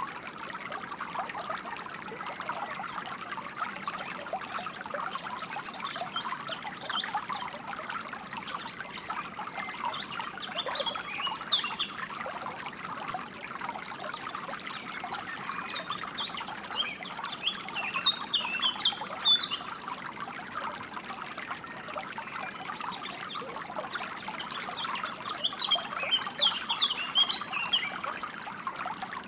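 Water trickling and splashing steadily in a small stream. Over it, songbirds sing in four bouts of rapid, high-pitched chirps.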